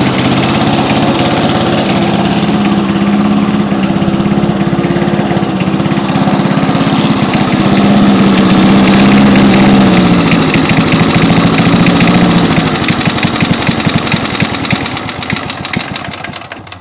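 1964 Cooper Cyclo-Vac 21-inch self-propelled rotary mower's 3.5-horsepower engine running steadily, then shut off about three-quarters of the way through: the firing slows to separate strokes and dies away near the end.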